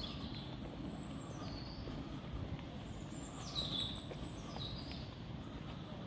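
Birds calling in trees: about four short, high chirps that slide down in pitch, the loudest a little past the middle, over a steady low outdoor rumble.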